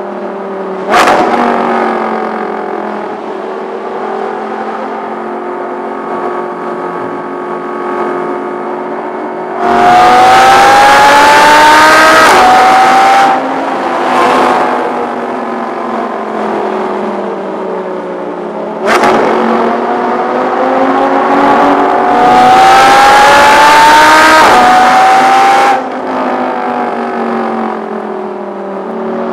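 Audi R8 V10 Plus's 5.2-litre V10 with a Capristo exhaust, heard from inside the cabin: cruising with a sharp rev blip about a second in, then two full-throttle pulls, each rising in pitch through an upshift before the throttle lifts off.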